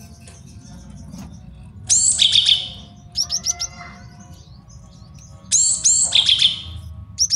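Male cinereous tit (gelatik batu) singing: two loud phrases of high notes sweeping down into a fast trill, about two seconds in and again near the end, with a quick run of short notes between them.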